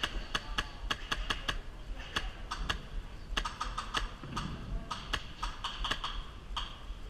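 Scattered airsoft gunfire: sharp, irregular clicks and cracks, several a second, some in quick runs.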